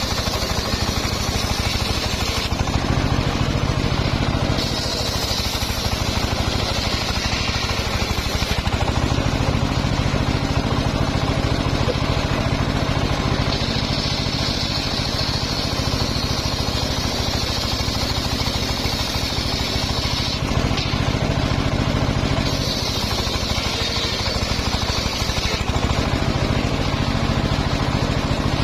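Engine-driven homemade circular sawmill running steadily while its blade rips mahogany, a high cutting whine coming and going four times as the wood is fed through.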